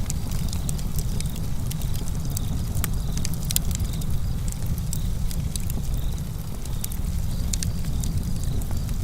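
Campfire crackling: irregular sharp snaps and pops from the burning wood over a steady low rumble.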